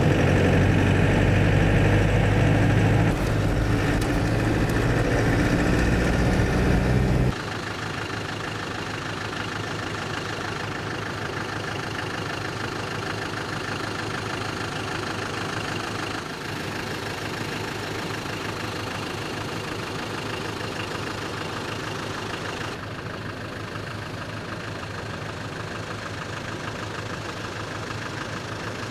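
4x4 vehicle's engine running while driving, heard from inside the vehicle; about seven seconds in it cuts to a quieter, steadier engine sound with less of the deep rumble.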